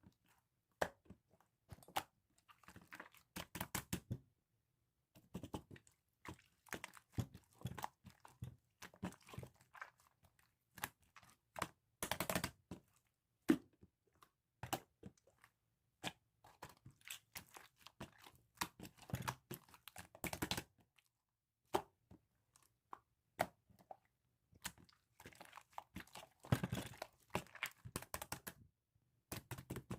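Pink slime being squished and stretched by hand, giving bursts of small sticky pops, clicks and crackles from trapped air, in clusters with short pauses between them.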